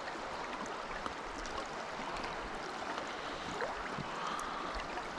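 Creek water running steadily, an even rushing, with a few faint small ticks over it.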